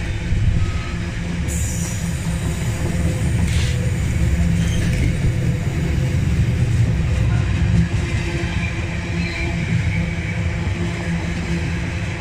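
Intermodal container freight train passing at speed: a loud, steady rumble of wagon wheels running on the rails.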